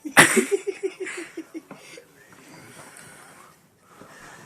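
A sudden loud burst, then a person laughing in a quick run of short ha's that dies away within about two seconds, followed by quieter breathing.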